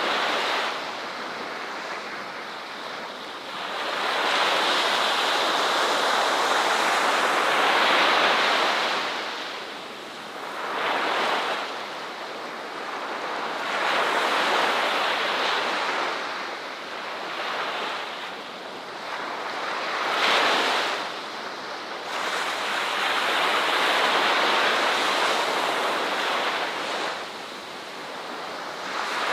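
Ocean surf breaking and washing up a shore, swelling into long loud surges of several seconds and falling back between them.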